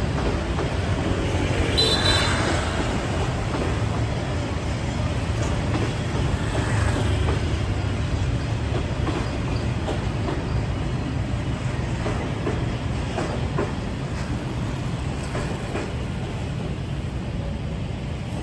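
Freight train rolling past with a steady low rumble and faint clatter of wheels over the rails. A brief high squeal comes about two seconds in.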